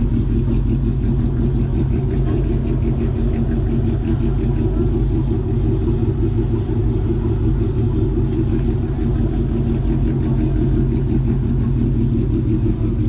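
A car engine idling steadily, loud and even throughout.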